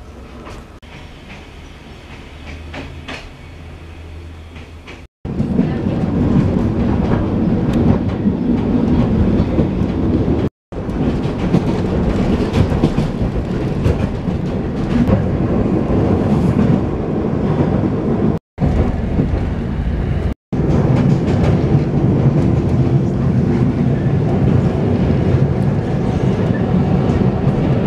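Narrow-gauge train heard from inside a carriage: first a quieter low hum with a few clicks, then from about five seconds in the loud, steady rumble and clatter of the wheels on the rails as the train runs. The noise breaks off abruptly into silence a few times where the recording is cut.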